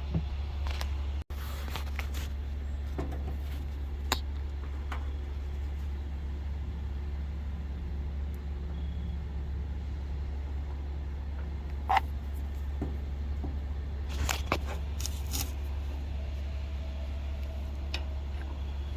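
A vehicle engine idling with a steady low hum, with a few scattered clicks and knocks, the loudest about twelve seconds in and a cluster a little after.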